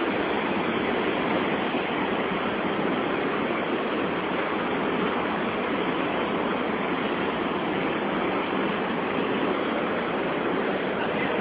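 Steady rushing of a large waterfall's white water, an even, unbroken noise with no changes.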